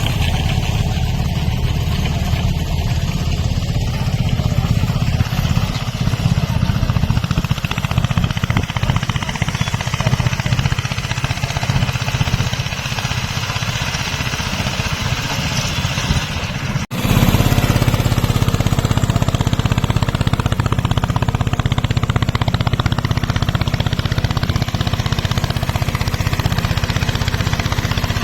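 Eicher tractor diesel engine running steadily. It cuts out for an instant about 17 seconds in, then comes back a little louder.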